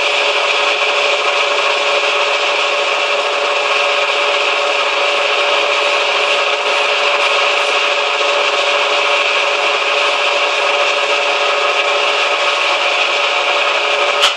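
Manual metal lathe running steadily: a constant machine whine under a rough, even rubbing hiss, as when machining metal.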